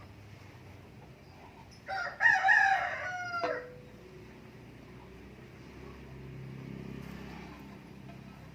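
A rooster crowing once, a call of about a second and a half starting about two seconds in, its pitch falling at the end.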